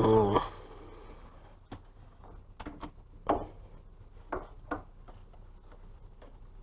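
Scattered short clicks and knocks of hand tools and metal parts being handled while the hub-assembly bolts are worked on, about six in the first five seconds, after a brief pitched groan at the very start.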